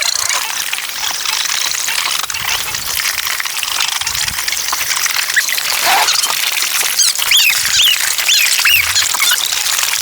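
Steady outdoor hiss with repeated short, high squeaking chirps, most of them about seven to nine seconds in.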